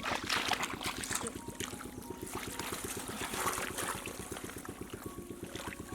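Water splashing and trickling, over a steady, fast, low pulsing.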